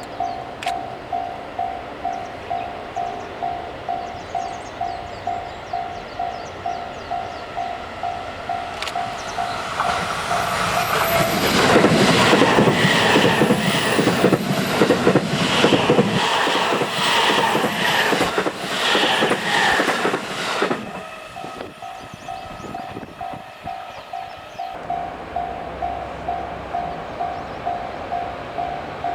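Japanese level-crossing warning bell ringing in a steady pulsing rhythm, then an electric train passing at speed for about ten seconds, its wheels clattering rhythmically over the rail joints and drowning out the bell. The bell is heard ringing again near the end.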